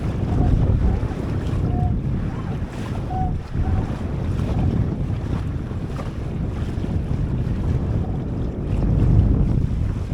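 Wind buffeting the microphone over the rush of water along a small sailboat's hull while it sails, a steady noise without any rhythm.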